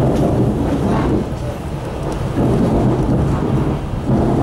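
Suburban passenger train running along the line, heard from inside the carriage: a steady, loud rumble of wheels on rails.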